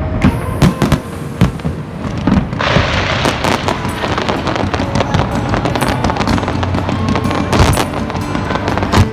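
Aerial fireworks going off in quick succession: repeated sharp bangs, joined from about two and a half seconds in by a dense, continuous crackling, with added background music underneath.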